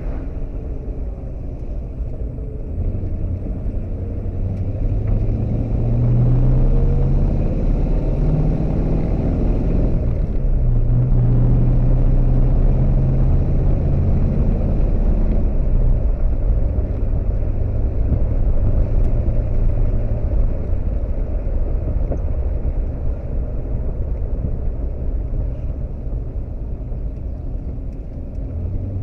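1979 Pontiac Trans Am's Pontiac 400 V8 running on the road. The engine note rises as the car accelerates about six seconds in, holds steady, then eases off in the last few seconds.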